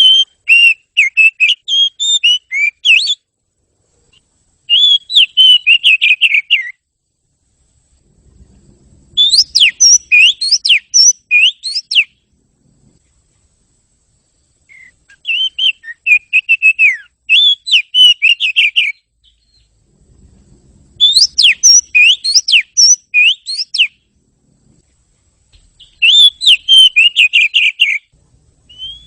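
Oriental magpie-robin singing: six loud phrases of rapid, varied whistled notes, each a few seconds long, with short pauses between them.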